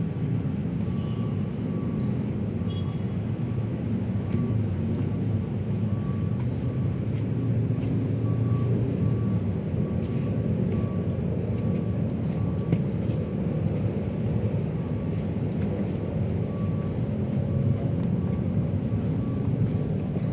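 Steady rumble of city road traffic with vehicles passing, alongside a faint high beep that repeats at regular intervals.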